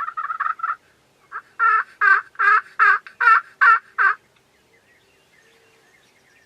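Wild turkey calling: the tail of a rapid rattling gobble, then after a short pause a run of about seven loud, evenly spaced yelps, a little over two a second.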